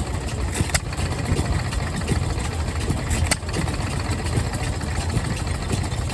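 An engine running steadily at low speed, with a couple of sharp clicks.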